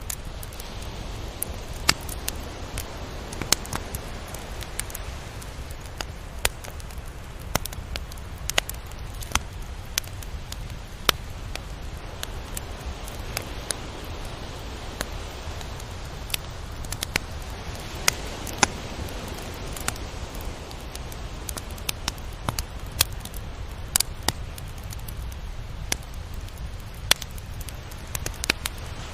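Tropical beach ambience: a steady wash of surf noise that swells gently in the middle, dotted with many scattered sharp clicks and crackles.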